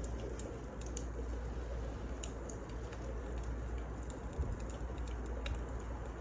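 Wood fire crackling: sparse, irregular small pops and snaps over a steady low rumble.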